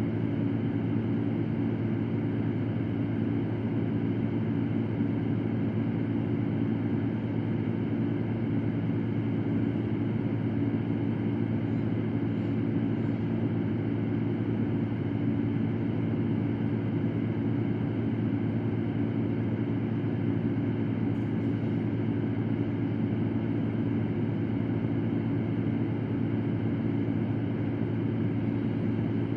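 Electric fan running steadily: an even whooshing rush of air with a low hum, unchanging throughout.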